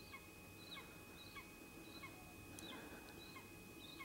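Corvids calling faintly in a steady series of short, hooked notes, about one every half second.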